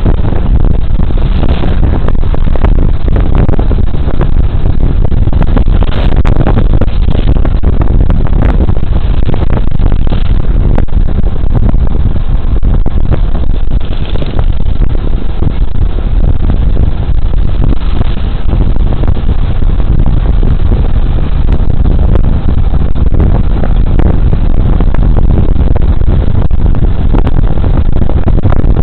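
Riding noise from a Suzuki Burgman Street 125 scooter at speed, picked up by a body camera's microphone: a loud, steady rumble of wind on the microphone mixed with engine and road noise.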